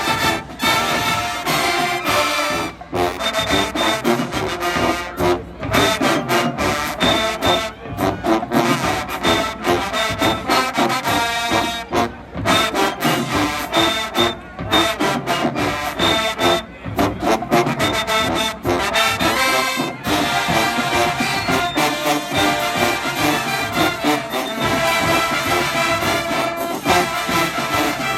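HBCU show-style marching band playing loud brass-led music, trombones and trumpets to the fore, over a driving beat, with brief sharp cut-offs where the whole band stops together.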